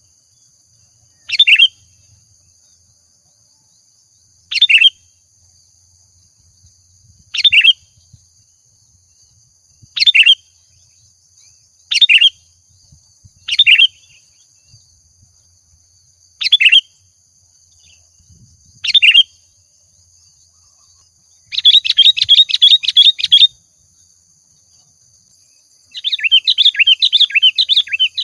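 Sooty-headed bulbul (kutilang) singing: short, clear calls repeated every two to three seconds, then two longer, rapid chattering runs of song near the end.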